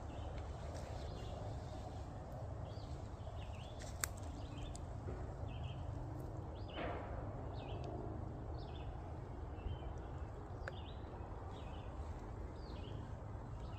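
Forest ambience with a bird calling in short, high, falling chirps, repeated about once or twice a second, over a steady low rumble. A couple of sharp clicks and a brief swell of noise come in midway.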